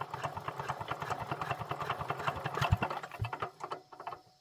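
A small machine running with a rapid, regular knocking of about ten beats a second. The beat slows and cuts off shortly before the end, as if the machine were switched off and spinning down.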